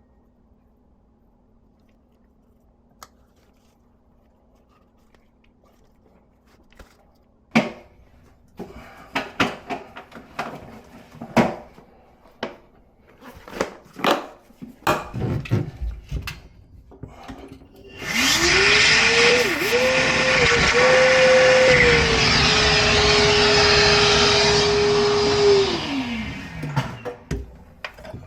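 Handling knocks and clicks, then a small high-speed electric motor spins up with a rising whine. It runs for about seven seconds, its pitch dipping briefly twice as if under load, and then winds down.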